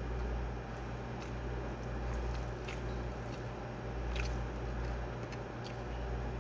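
A person chewing a mouthful of rice with the mouth closed: scattered soft, wet mouth clicks over a steady low hum.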